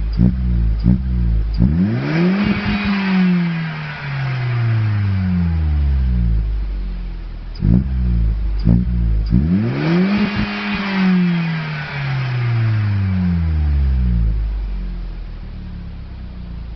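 Opel Corsa C 1.2 four-cylinder engine revved through a SuperSport sport exhaust. A few short throttle blips are followed by two long revs, each climbing quickly and then falling slowly back to idle.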